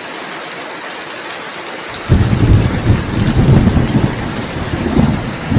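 Steady rain hissing, then about two seconds in a sudden loud, low rolling rumble of thunder breaks in and keeps rumbling under the rain.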